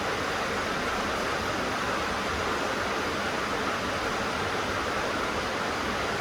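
Rain falling steadily on a tin roof, an even, unbroken patter with no single drops standing out.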